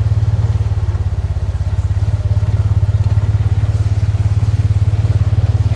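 An engine runs steadily with a fast, even low pulse.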